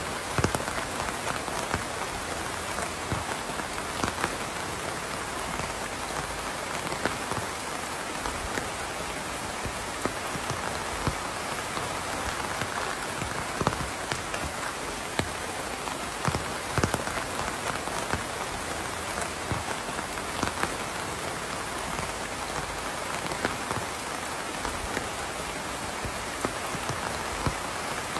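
Steady rain falling, an even hiss with frequent close drops pattering and tapping on a surface.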